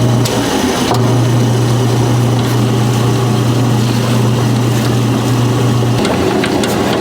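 A steady low machine hum that switches on about a second in and cuts off about six seconds in, over a constant background of noise.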